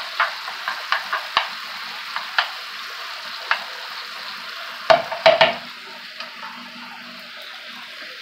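Shrimp, onions and garlic sizzling in butter in a nonstick pan while a silicone spatula stirs, scraping and tapping against the pan. A cluster of louder knocks comes about five seconds in, after which the sizzle goes on a little more softly.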